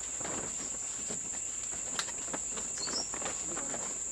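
A steady high-pitched drone of forest insects, with rustling and knocking as wooden poles and branches are handled. There is a sharp knock about two seconds in.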